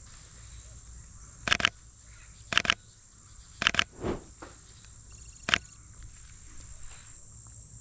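Sony A7 IV camera shutter firing in quick two-click bursts, three times and then once more, over a steady high-pitched insect drone.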